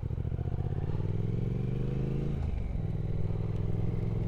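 Triumph Speed Twin 1200 parallel-twin engine accelerating away from a junction, its pitch rising for about two seconds, then a short dip at a gear change before it pulls on steadily.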